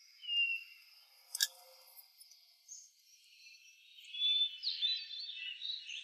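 Outdoor woodland ambience of birds chirping: a couple of isolated high chirps and a single sharp click about a second and a half in, then a denser run of chirps from about four seconds in.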